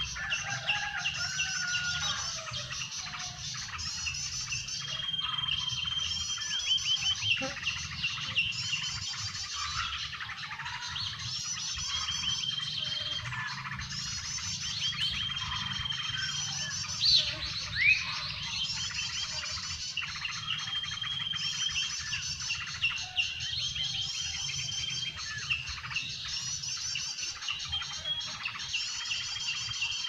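Common iora calls and chirps played from a lure recording on a loudspeaker, the same short phrases repeating over and over. Two louder rising calls stand out a little past halfway, over a low steady hum.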